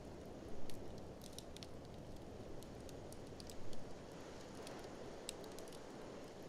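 Wood fire crackling with scattered sharp pops and two louder flurries of crackles, about half a second in and a little past the middle, over a steady low rush of blizzard wind.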